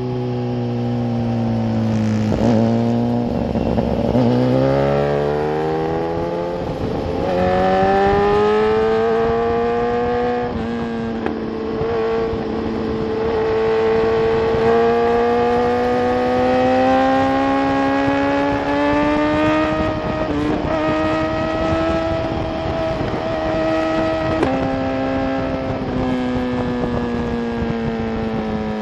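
Sport motorcycle engine under hard acceleration, its pitch climbing in long pulls and dropping sharply at each gear change, several times, with one last upshift near the end.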